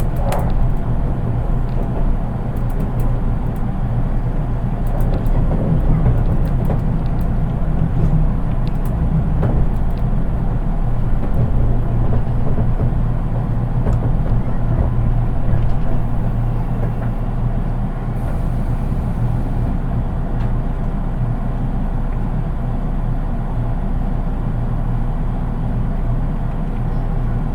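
Interior sound of a JR East 183 series electric train, heard in its unpowered driving trailer car: a steady low rumble of the running train, a little louder in the first two-thirds, with faint ticks in the first few seconds.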